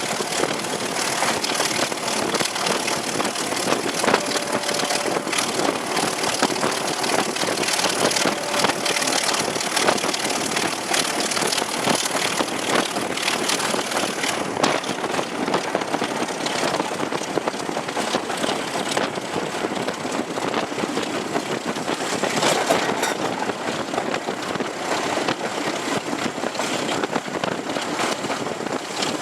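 Heavy rail diesel engine running steadily, with a continuous rough mechanical noise.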